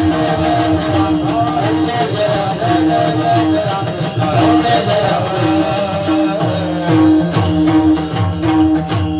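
Varkari bhajan music: a pakhawaj drum and jingling hand cymbals play a quick, steady rhythm, about three or four strokes a second, over held notes.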